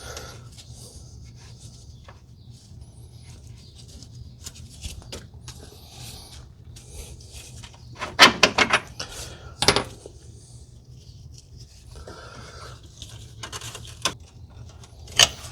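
Metal parts and hand tools clinking and scraping as suspension parts are fitted by hand, with a quick run of sharp metallic clicks about eight seconds in, another click near ten seconds and one near the end, over a low steady hum.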